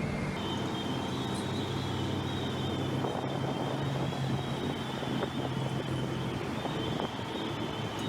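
Bucket wheel excavator running: a steady low machinery hum under a constant high-pitched metallic squeal. The hum drops away about seven seconds in while the squeal goes on.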